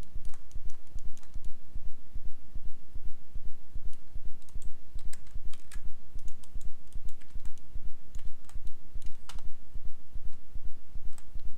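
Scattered, irregular clicks of a computer mouse and keyboard being worked, over a loud low pulsing rumble.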